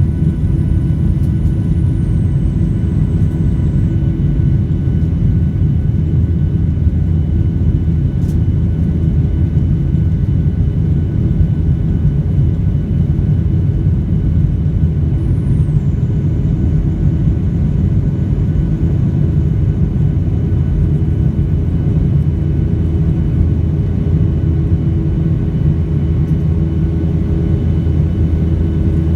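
Boeing 737 in flight, heard from the cabin: a loud, steady rumble of engine and airflow noise. A faint high whine steps down in pitch twice.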